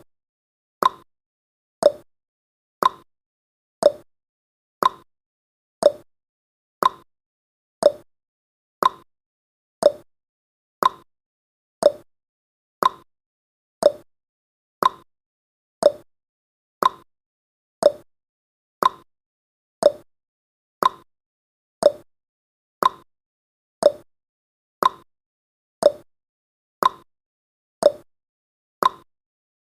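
Clock-tick sound effect of a countdown timer, one sharp tick about every second, steady throughout.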